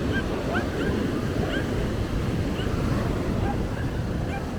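Surf washing on a sandy beach, with wind rumbling on the microphone. Scattered short, high chirps come through over the noise.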